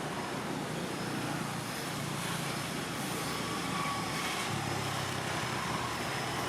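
Steady outdoor background noise with a low, engine-like hum from passing vehicles.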